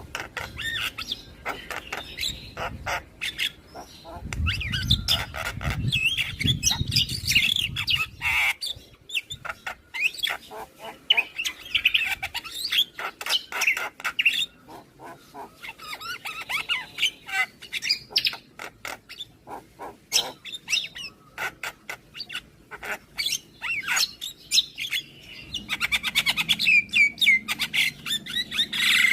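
Javan myna chattering and calling: a busy run of harsh chirps, whistles and sharp clicks that comes in bursts and pauses. A low rumble sits under it from about four to eight seconds in.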